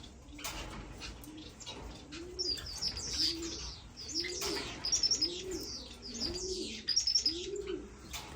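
Caged finches chirping in high, quick bursts over a low, even cooing that repeats a little more than once a second.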